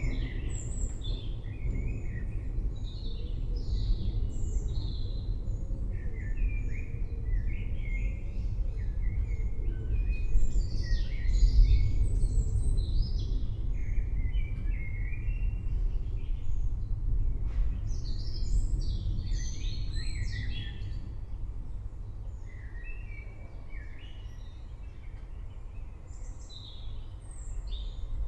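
Birds chirping again and again over the low rumble of rolling thunder. The rumble swells about ten seconds in and fades off toward the end.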